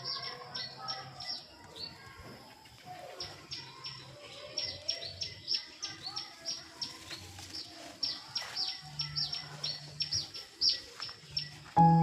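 Small birds chirping outdoors: a busy run of short, high chirps that drop quickly in pitch, several a second, with a faint low hum underneath in places.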